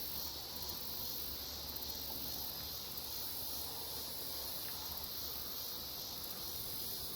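Steady high-pitched insect chorus, a continuous shrill drone with a faint regular pulsing.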